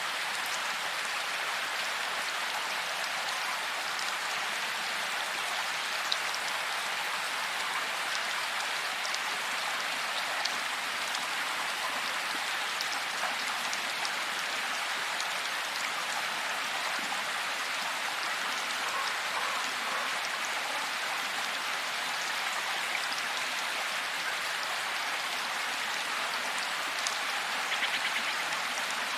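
Steady rain falling, an even hiss with scattered sharper drop ticks and a few slightly louder drips near the end.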